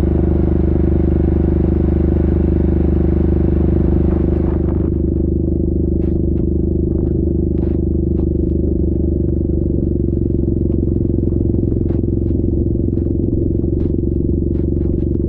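Yamaha Grizzly 700 ATV's single-cylinder engine running steadily. A hiss over the engine note fades out about four and a half seconds in, leaving the engine with scattered light clicks and knocks.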